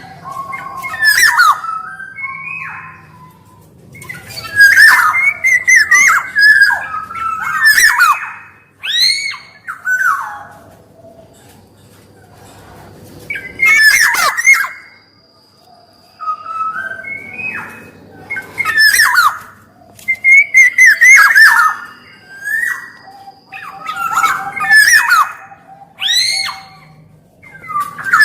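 Black-naped oriole (kepodang emas) singing in repeated bursts of loud, fluty, gliding whistles mixed with sharp scratchy notes, each burst separated by a pause of a second or two.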